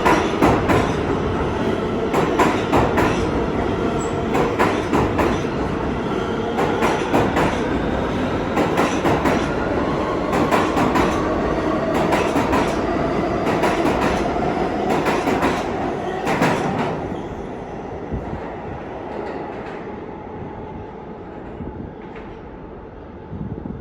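New York City subway train pulling away and accelerating: its traction motor whine rises steadily in pitch over the clack of wheels crossing rail joints. The clacking stops after about seventeen seconds and the sound fades as the train leaves.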